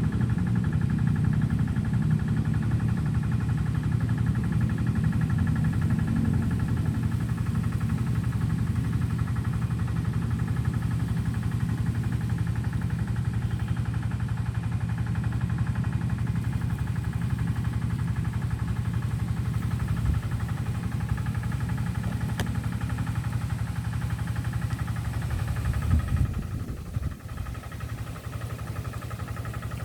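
A motor running steadily with a low hum, which drops and changes near the end.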